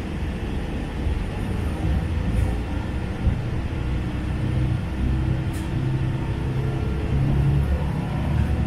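Hojo Railway diesel railcar running along the line, heard from inside the car: a steady low rumble of engine and running gear, rising slightly near the end.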